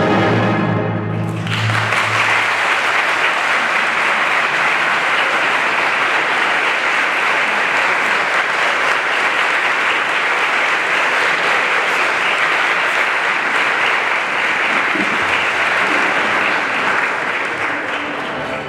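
An orchestra's last chord dies away about a second and a half in, then an audience claps steadily.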